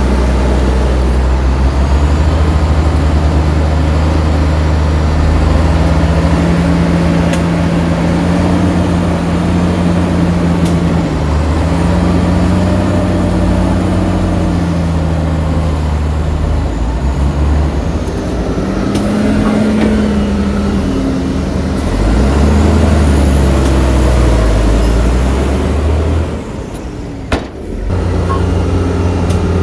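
Heavy diesel engine running and revving up and down under load, its pitch rising and falling several times. Near the end it drops much quieter for about a second and a half, with a single click, then comes back up.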